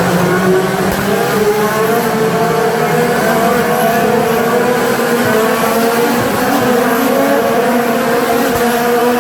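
IndyCar race cars' turbocharged V6 engines heard from trackside, several cars at once, loud and steady, with the engine pitch rising slowly as they accelerate.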